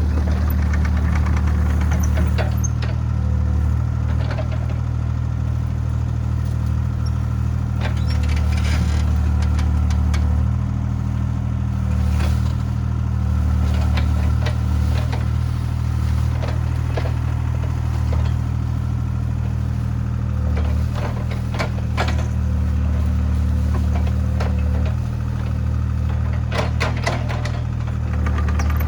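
Diesel engine of a compact construction machine running steadily, its level swelling and easing a little as it works. Scattered sharp clicks and cracks sound over it, thickest about eight seconds in and again near the end.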